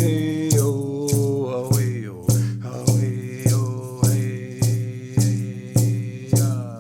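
A Haudenosaunee social dance song: voices chanting over a steady drum beat of about two strikes a second, each beat doubled by a shaken rattle.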